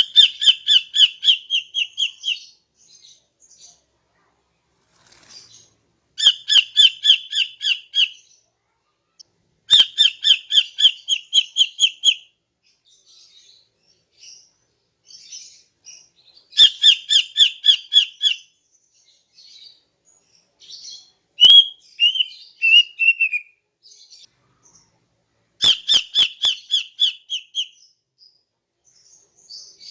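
Female cucak ijo (greater green leafbird) calling: five bouts of fast, evenly repeated chattering notes at about five a second, each bout lasting around two seconds, with softer short calls and a squeaky twitter between them.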